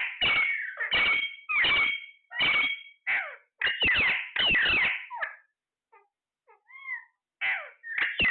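Parrot screeching: a rapid series of harsh calls, about two a second, with a short pause near the middle that holds a softer whistle.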